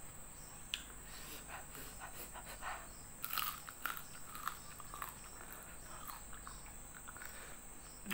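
Close-miked eating sounds: a person chewing a mouthful of rice and fried salted fish, with soft wet smacks and short crunches, the sharpest cluster about three to four seconds in.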